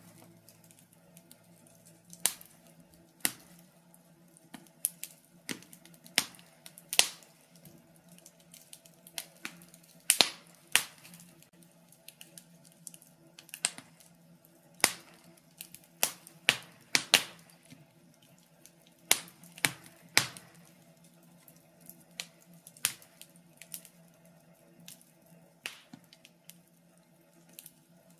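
Birch wood fire burning in a fireplace, crackling with irregular sharp pops and snaps, about one or two a second, some in quick clusters.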